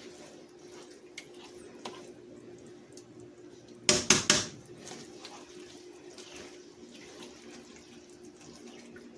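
Chicken hearts sizzling in oil in a frying pan over a steady low hum, with a quick clatter of a utensil against the pan about four seconds in.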